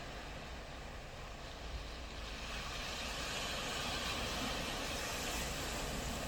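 Ocean surf on a beach: waves washing in, with a louder rush of breaking water building about two seconds in and holding to the end.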